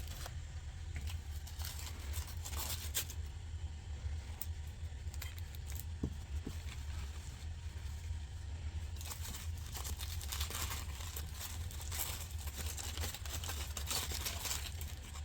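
Intermittent crinkling and rustling, as of wrapping being handled or torn, growing busier about halfway through, over a steady low hum.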